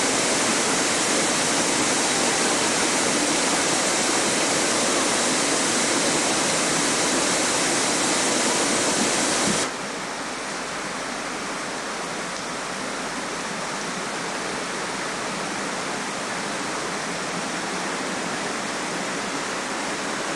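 Steady rush of a mountain waterfall. About ten seconds in, the sound drops suddenly to a quieter, duller rush.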